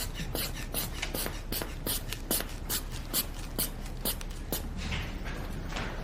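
A steady run of sharp taps, about two and a half a second, that stops about four and a half seconds in.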